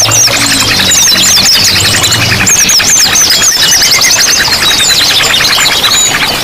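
Many songbirds of several kinds calling and singing at once, a dense chorus of fast chirps, trills and short whistled glides over a running-water hiss. A low steady drone runs under it for the first two and a half seconds, then stops.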